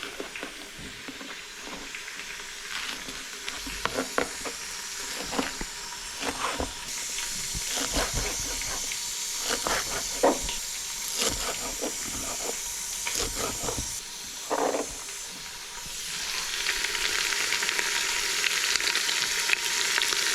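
Food frying and sizzling in a cooking pot while being stirred, with scattered clicks and knocks of the utensil against the pot. The sizzle gets louder about four seconds before the end.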